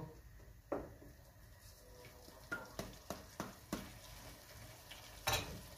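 Onions and ginger-garlic paste sizzling faintly in oil in a pot while a wooden spoon stirs them, knocking against the pot several times; one louder knock near the end.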